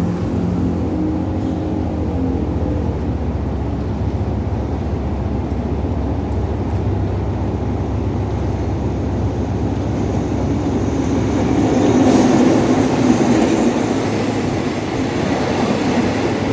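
Diesel-hauled suburban train arriving at a station: a low, steady engine hum with rumbling wheels on the rails. It grows louder and harsher about twelve seconds in as the train comes alongside.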